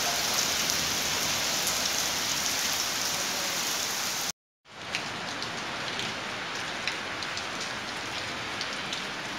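Heavy rain falling on a flooded paved yard, a steady hiss of water. It breaks off for a moment a little under halfway, then carries on a little softer with scattered drop ticks.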